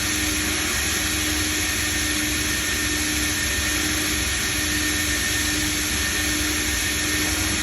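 Automatic car wash machinery running, a steady rushing noise with a constant low hum and a faint high whine.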